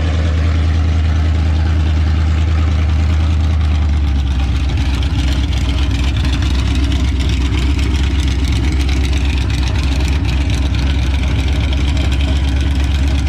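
A vehicle engine idling close by, loud and steady with a deep low hum. The low note shifts slightly about four seconds in.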